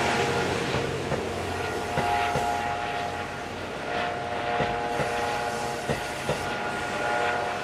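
Twilight Express Mizukaze cruise train passing slowly close by: steady running noise with its wheels clacking over rail joints several times at uneven spacing, and a faint steady whine.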